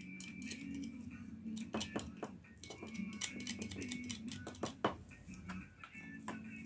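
Irregular sharp clicks and taps of small metal parts being handled while a Wahl Senior hair clipper is reassembled, over faint background music.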